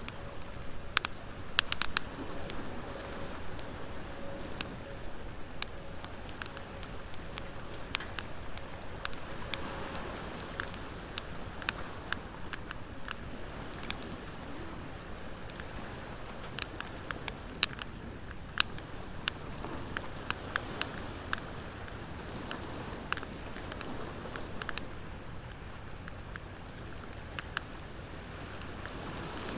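Wood bonfire crackling, with irregular sharp pops several times a second, over a steady wash of ocean waves.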